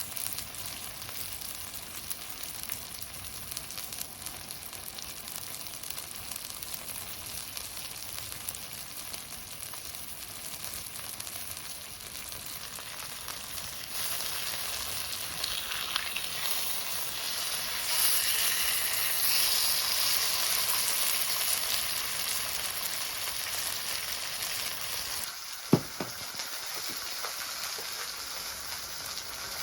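Steady sizzling and crackling at a backyard wood fire used for cooking, growing louder about halfway through and loudest a little later. One sharp clank near the end.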